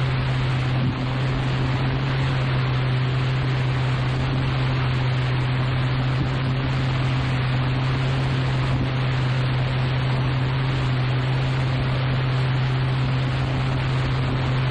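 Steady loud rushing noise with a constant low hum underneath, unchanging throughout.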